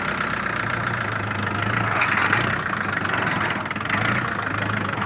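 Kubota MU4501 tractor's four-cylinder diesel engine running steadily, briefly louder about two seconds in.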